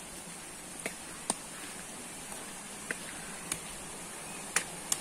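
Steady faint hiss broken by about six sharp, irregular ticks or taps.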